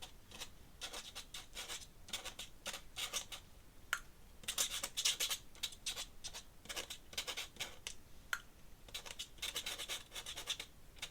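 Ink pen nib scratching across paper in quick, repeated drawing strokes, coming in irregular flurries.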